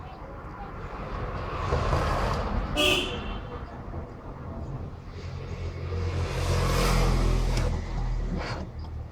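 Road traffic: two vehicles pass one after the other, each rising and fading over a few seconds. A brief high-pitched tone sounds about three seconds in.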